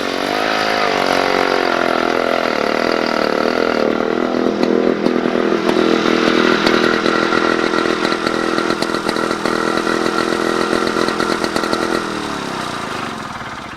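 Small petrol engine running, its pitch wavering up and down at first, then holding steady, and falling away near the end as it slows down.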